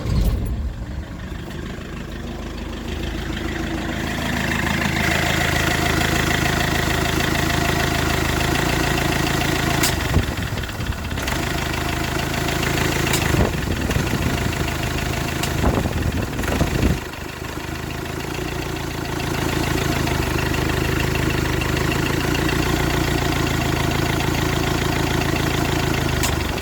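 Iveco Daily van engine started and running at idle, with the electric radiator cooling fan running alongside. It gets louder about four seconds in, and a few sharp clicks sound in the middle.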